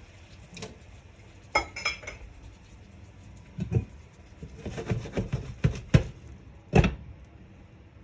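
Kitchen utensils and cookware knocking and clinking: a string of separate knocks and short ringing clinks, busiest about two thirds of the way through, with the loudest knock near the end.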